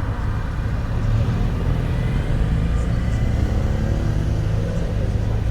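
A car engine running steadily close by, giving a low, even engine note.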